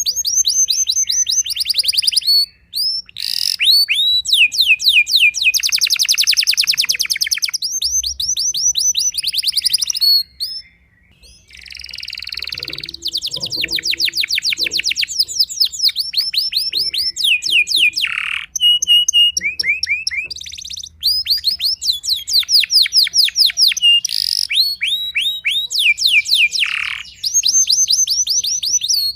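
Domestic canary singing a long, fast song of rapid repeated trills and rolls, with one short pause about ten seconds in.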